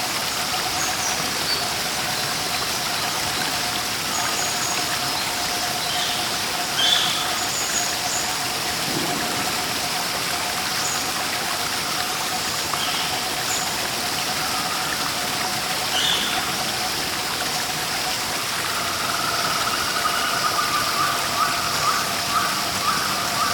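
Steady rush of a waterfall, with short bird chirps scattered through it. In the last few seconds a call repeated about twice a second joins in.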